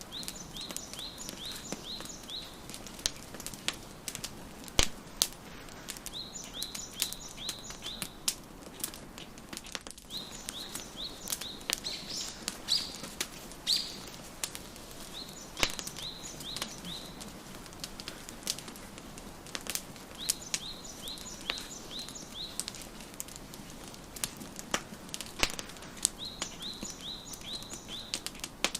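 Wood fire crackling with sharp pops, the loudest sounds. A songbird repeats a short phrase of six or so quick high chirps about every five seconds.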